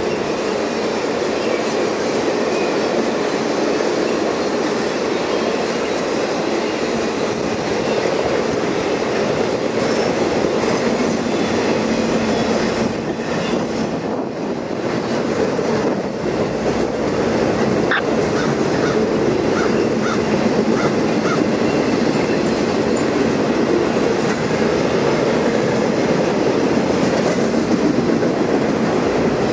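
Long train of passenger coaches, then flatcars carrying trailers, rolling steadily past on the rails: a continuous rumble of steel wheels on track that eases briefly about halfway through.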